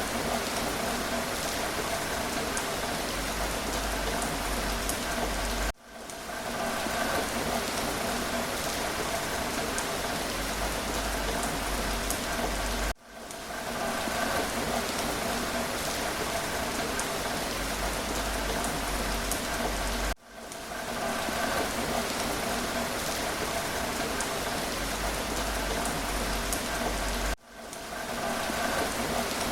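Steady rain falling: a dense, even patter with individual drops ticking through it. About every seven seconds the sound dips out briefly and swells back in.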